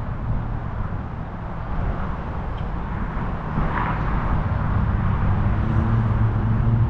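A motor vehicle's engine rumbling low and steady, growing louder toward the end as it draws nearer.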